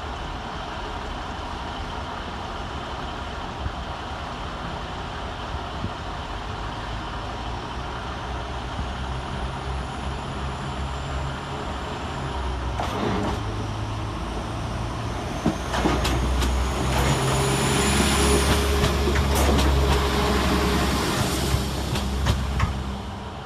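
Northern Class 195 diesel multiple unit pulling away, its underfloor diesel engines running steadily under power. It grows louder over the second half, with a faint high whine at times.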